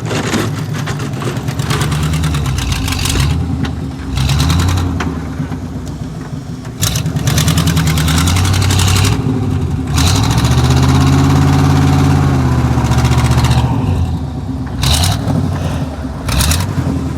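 Truck engine revving up and down several times in snow, its pitch climbing and falling, with one long high rev about two-thirds of the way through. Stretches of hiss ride over the engine.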